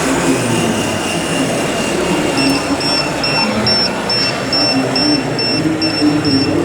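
Radio-controlled 1:14 scale model trucks and machines running with a steady mechanical din. A couple of seconds in, a high electronic beeping joins at about two beeps a second, like a reversing warning beeper.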